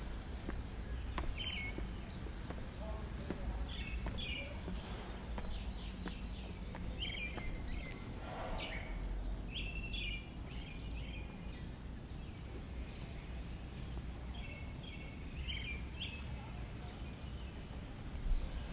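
Small birds chirping in short clusters of quick calls, over a steady low rumble of background noise.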